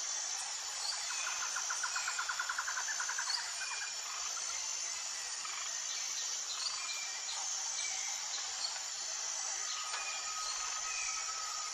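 Tropical forest ambience: a steady high insect drone with scattered short bird chirps. About a second in, a bird gives a fast trill of rapidly repeated notes lasting about two seconds. Near the end, a steady whistle-like tone comes in.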